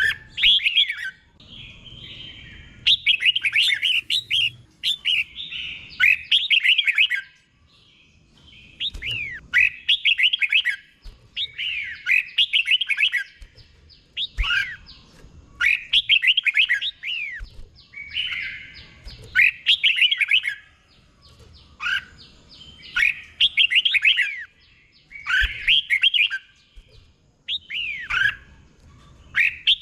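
Red-whiskered bulbul singing: short phrases of quick, sweeping whistled notes, repeated every second or two with brief pauses between them. This is the slow, clear doubled-phrase song that Thai keepers prize in competition birds.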